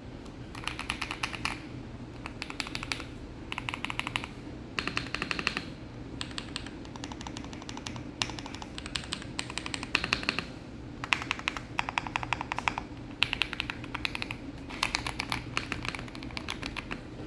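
Mechanical keyboard being typed on in quick bursts of rapid keystroke clicks, each burst about a second long with short pauses between.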